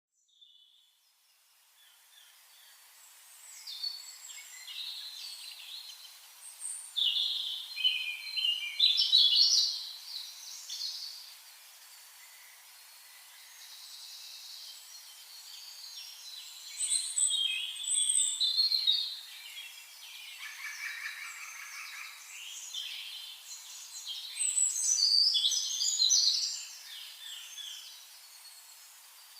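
Birds singing in warbling, chirping phrases that come and go in bursts of a few seconds, over a faint steady hiss.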